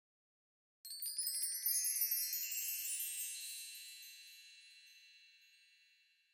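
Chime sound effect: a quick glittering run of many high bell-like tones about a second in, then ringing out and fading slowly over several seconds.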